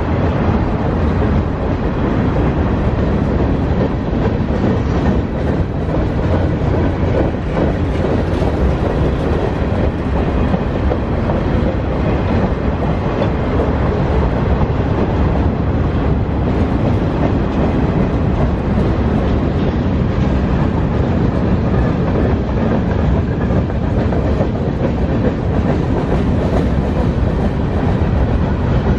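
Freight cars of a mixed freight train rolling past at steady speed, their steel wheels running and clattering on the rails without a break.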